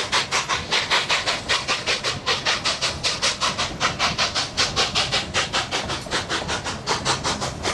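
Narrow-gauge steam locomotive working hard up a grade: rapid, even exhaust chuffs, about four a second, with steam hiss.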